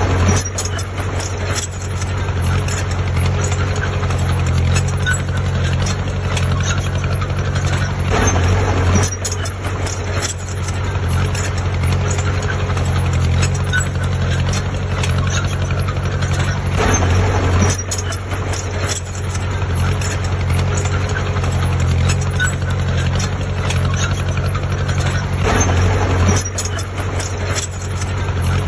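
Diesel engine of heavy earthmoving machinery running steadily, with a few louder surges spread through.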